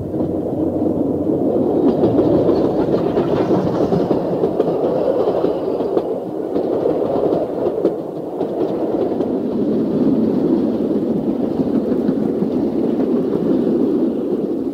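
Passenger train hauled by W-class steam locomotive W945 passing by: a steady rumble of wheels on rails with a few faint clicks.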